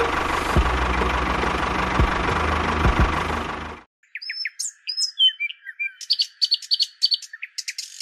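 A tractor engine running steadily, with a few low thumps, that cuts off abruptly about four seconds in. After a brief gap, birds chirp in quick, high calls.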